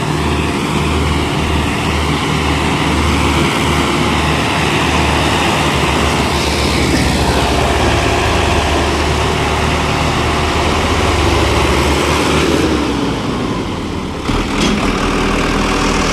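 Sonalika Sikander DI 750 tractor's diesel engine running hard while pulling a fully loaded trolley, with a heavy low beat. The beat quickens partway through as the revs rise, then eases off again near the end.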